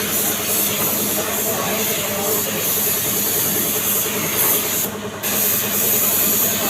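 Compressed-air paint spray gun hissing steadily as paint is sprayed, cutting out briefly about five seconds in, then resuming.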